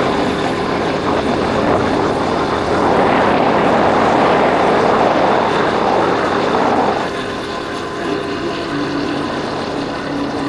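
Yamaha Factor 150's single-cylinder engine running at road speed under heavy wind rush on the helmet microphone. The sound swells from about three seconds in and eases off at about seven seconds.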